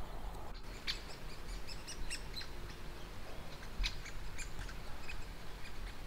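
Faint, short, high bird chirps and calls, scattered irregularly over a quiet woodland background.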